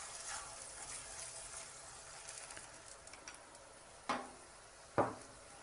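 Faint sizzling of a besan paratha frying in oil on a tawa (flat iron griddle), with a metal spoon spreading oil over it at first. Two short, sharp knocks come about four and five seconds in.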